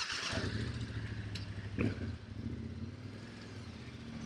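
Motorcycle engine starting up and then idling steadily.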